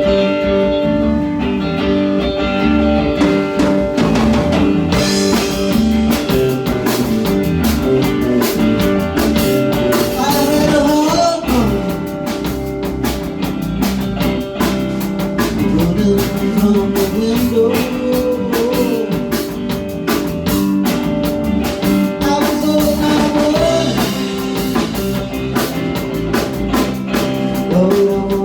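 A small rock band playing live: guitars strumming with a drum kit keeping a steady beat, and a sung melody coming and going.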